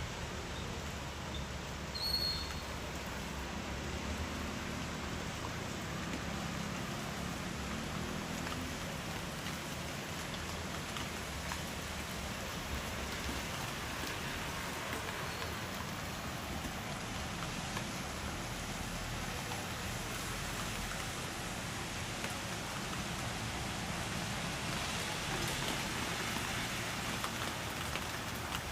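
Steady monsoon rain falling, an even hiss of rain on surfaces, a little stronger near the end. A brief high chirp sounds about two seconds in.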